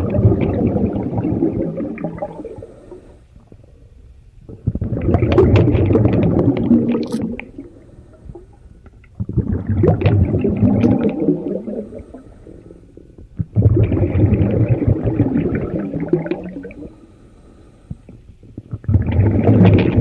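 Sea waves breaking on a beach: a wash that swells and falls back about every four and a half seconds, five surges in all.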